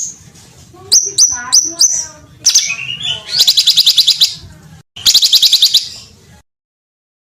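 Songbird song from a bird-training (masteran) recording: four sharp, falling whistled notes, then two fast, rattling trills of rapidly repeated high notes, before the sound cuts off abruptly at an edit into silence near the end.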